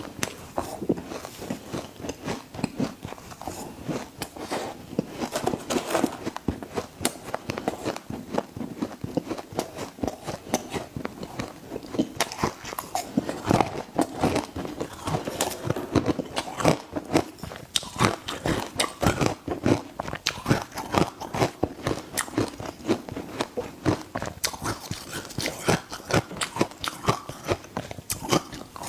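A person biting and chewing ice close to the microphone: dense, irregular crunching and crackling.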